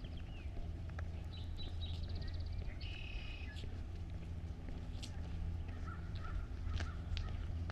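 Birds calling, with a harsh, caw-like call about three seconds in and several shorter chirps, over a steady low hum and a few light clicks.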